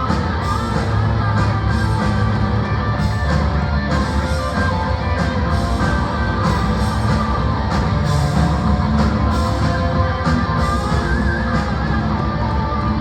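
Live punk rock band playing loudly, with electric guitar, bass and drums.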